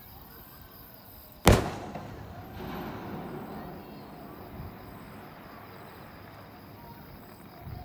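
A single fireworks shell bursting with one sharp boom about a second and a half in, followed by a rumbling echo that dies away over a couple of seconds. Insects chirp faintly and steadily throughout.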